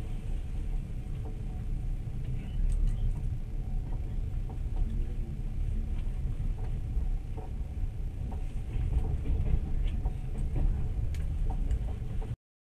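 Train running: a steady low rumble with faint, scattered clicks and rattles, heard from inside the carriage. It cuts off suddenly near the end.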